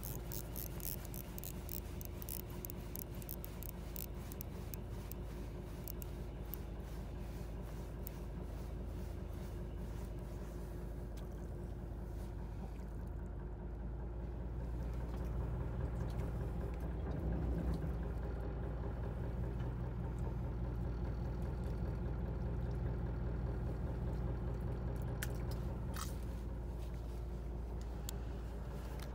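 Fishing boat's engine running steadily with a low hum. Rapid clicking for the first ten seconds or so, and a few sharp ticks near the end.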